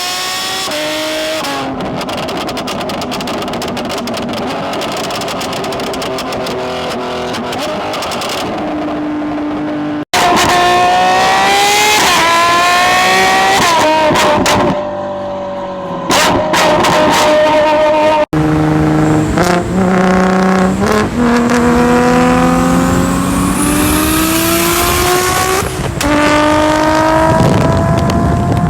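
Loud high-performance car engines at full throttle in three separate takes. The first is a hard-running engine with a rough, noisy exhaust. In the other two, cars accelerate through the gears, the pitch climbing and dropping back at each upshift.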